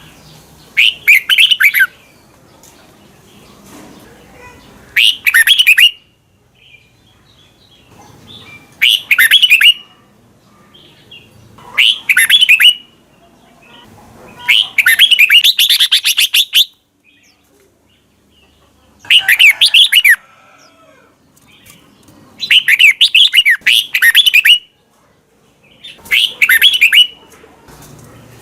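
Red-whiskered bulbul singing: a short phrase of quick rising and falling notes, about a second long, repeated eight times with pauses of two to three seconds between; the phrase a little past the middle runs about twice as long.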